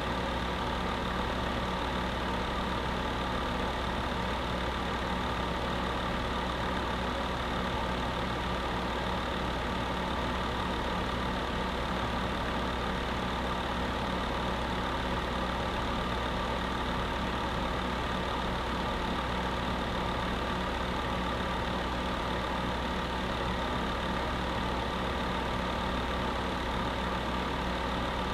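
Space heater running steadily: an even rushing hiss with a low, constant electrical hum underneath, unchanging throughout.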